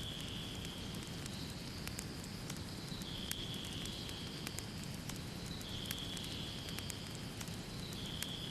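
Wood fire crackling in a fireplace: a steady low hiss with scattered sharp pops and snaps. A faint high tone runs under it, stepping between two pitches every two to three seconds.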